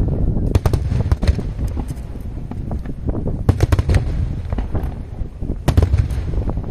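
Aerial fireworks display: an unbroken deep rumble of shell bursts, with clusters of sharp crackling reports about half a second in, around three and a half seconds, and again near six seconds.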